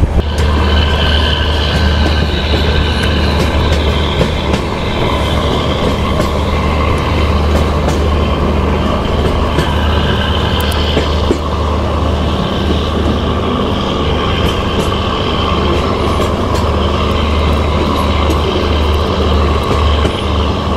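Passenger train running on the track, heard from on board: a steady rumble of wheels on rails, with a faint high steady tone of wheels squealing on the curve.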